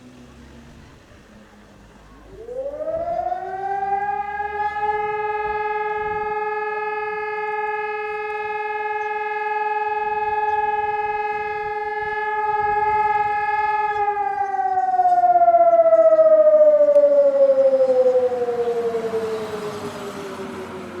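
Motor-driven warning siren winding up to a steady wail, holding for about ten seconds, then slowly winding down. This is the kind of siren blast that alerts a German volunteer fire brigade.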